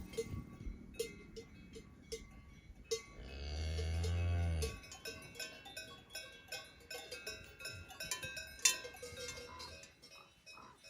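Cowbells clanking irregularly as livestock move. About three seconds in, a cow moos once, a low call lasting nearly two seconds.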